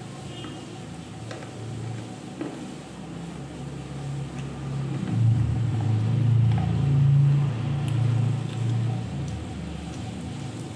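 Mouth noises of chewing crushed slate pencil, with a few faint soft clicks, under a low droning rumble that swells about four seconds in and fades near the end.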